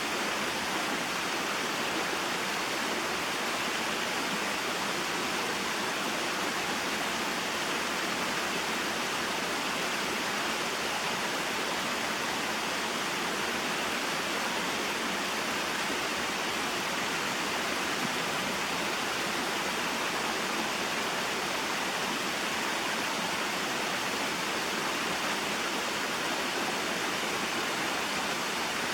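Small waterfall and mountain stream: water pouring and rushing steadily, an even, unbroken hiss.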